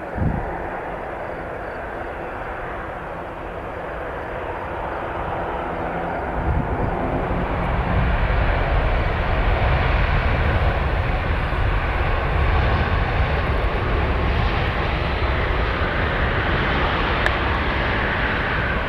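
Airliner's engines passing overhead on approach: a steady roar that grows louder about six seconds in, with a deep rumble, and stays loud. A short thump just after the start.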